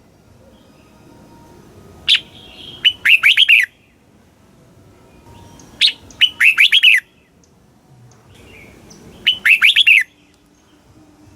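Red-whiskered bulbul singing three short song phrases about three and a half seconds apart. Each phrase is a sharp opening note followed by a quick run of falling notes.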